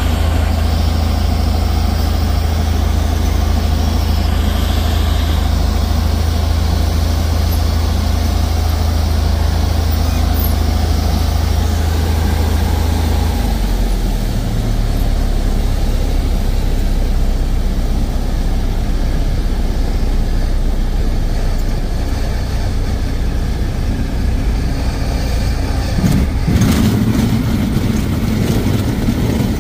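Cessna 172's piston engine running steadily, heard from the cockpit, with a deep drone that drops to a lower pitch about halfway through as the power comes back. A brief noise sounds near the end.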